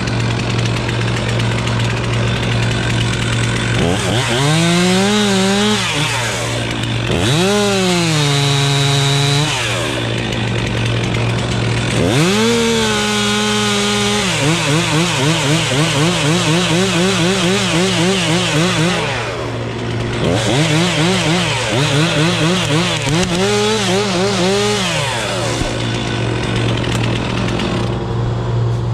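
Two-stroke chainsaw revved up in four runs, cutting wood, its pitch wavering under load, over a steady low engine hum.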